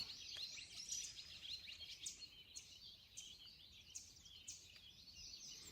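Faint birdsong: many short, high chirps repeating in quick succession over a soft outdoor hiss.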